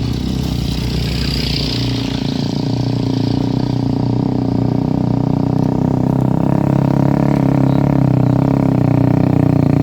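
Motor vehicle engine running steadily and growing gradually louder as it approaches, with a brief hiss about a second in.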